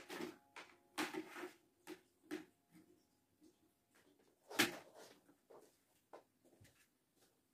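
Scattered knocks, clicks and rustles of household things being handled, as in a cupboard or drawer being worked. The loudest is a sharp knock about four and a half seconds in.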